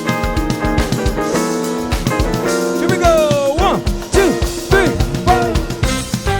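Live smooth-jazz band playing: electric guitar, keyboards, bass and drum kit. From about three seconds in, a lead line of bending, sliding notes rides over the chords and beat.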